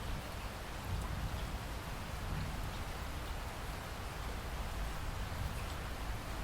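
Steady rainfall, with a low rumble underneath and faint patter of drops.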